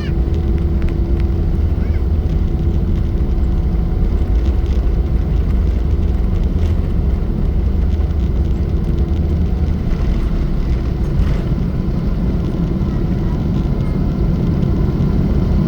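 Steady cabin noise of a Boeing 777-300 airliner in flight: a loud, even low rumble of engines and airflow. A steady hum running along with it drops out about nine seconds in.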